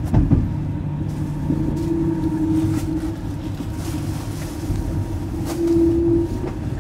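Steady low rumble of a sleeper train carriage on the move, heard from inside the compartment, with a humming tone that comes in twice and a few knocks right at the start.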